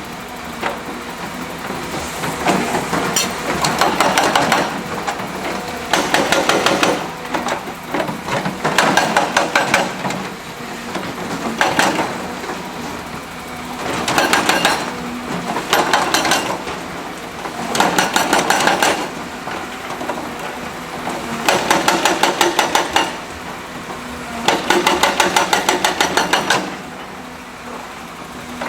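Percussive rock-breaking hammer firing in repeated bursts of rapid blows, each burst about a second long and coming every two to three seconds, over a steady running engine.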